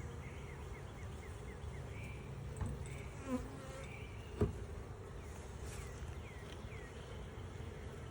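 Russian honey bee colony buzzing steadily around an open hive during a frame inspection, with a single sharp knock about halfway through.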